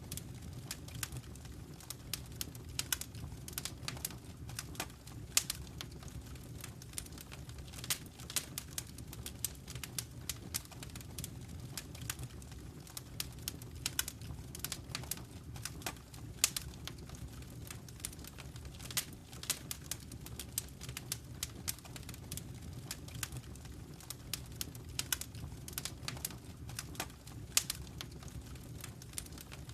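Wood fire crackling in a fireplace: many sharp, irregular pops and snaps over a low, steady rumble of the flames.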